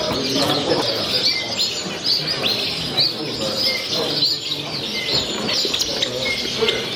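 Many caged show birds chirping and twittering at once: a dense, continuous chorus of short high calls.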